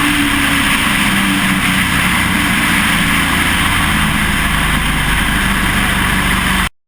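Pro Truck race truck's engine running steadily, heard from inside the truck with a loud rush of wind and road noise over it. The sound cuts off abruptly near the end.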